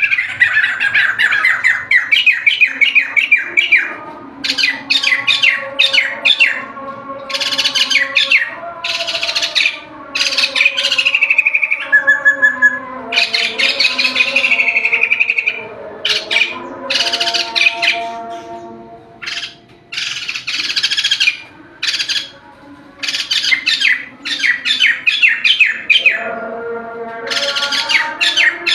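White-crested laughingthrush singing loudly in full song, in repeated bursts of rapid chattering notes a few seconds long with short pauses between them.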